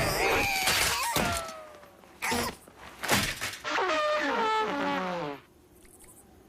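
Cartoon slapstick sound effects: a few sharp thuds and whacks mixed with squeaky, sliding vocal noises from the animated characters, some falling in pitch.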